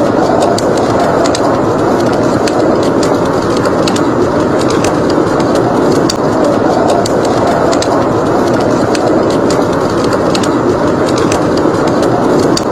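Steady rush of blizzard wind, with a wood fire crackling in sharp, irregular pops over it.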